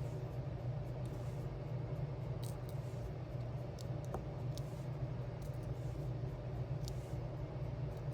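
Steady low hum of room tone, with about half a dozen faint light ticks as diamond-painting gems are picked up and pressed onto a sticker sheet.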